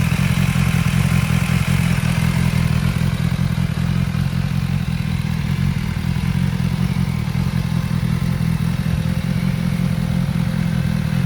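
BMW S 1000 XR's inline-four engine idling steadily.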